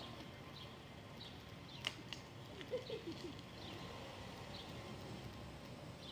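Birds chirping faintly: a short, high, downward chirp repeated about every half second. There are two sharp clicks about two seconds in and a brief low warbling call around the middle.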